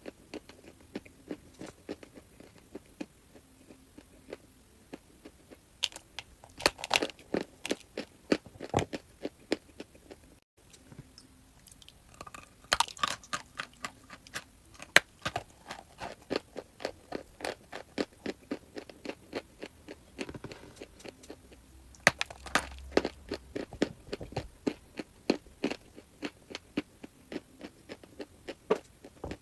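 Crunchy chalk being bitten and chewed close to the microphone: a dense run of sharp crunches, several a second. The crunching gets louder around a quarter of the way in, again past the middle, and about three quarters through, and the sound drops out for an instant about a third of the way in.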